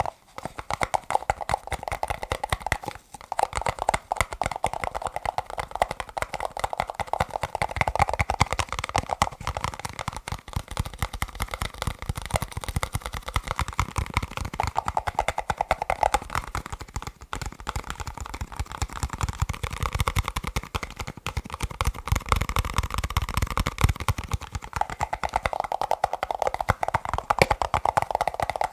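Fast fingertip and fingernail tapping on plastic cups, a dense continuous patter of hollow clicks whose pitch shifts as the taps move between cups or spots on a cup.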